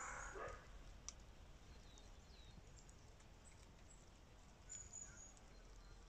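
Near silence outdoors, with faint, high bird chirps a few times and a single sharp click about a second in.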